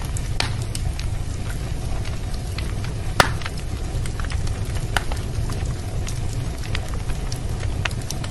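Wood fire burning in a fireplace: a steady low rumble and hiss of the flames with irregular crackles and pops, one sharp pop about three seconds in standing out loudest.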